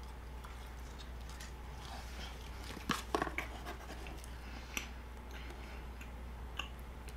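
Faint chewing of a sugar-coated gummy cola belt candy: a few short, soft mouth sounds, a small cluster about three seconds in, over a steady low hum.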